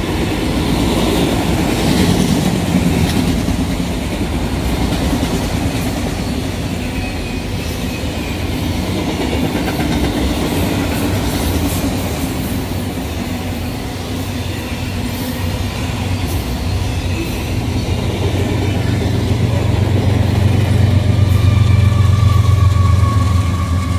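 Freight cars rolling past, a steady rumble of steel wheels with clickety-clack over the rail joints. In the last several seconds a low diesel drone grows louder as the train's rear distributed-power locomotives come by, with a faint wheel squeal near the end.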